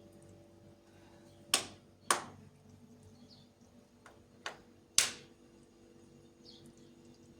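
Four sharp knocks in two pairs, each pair about half a second apart, over a faint steady hum.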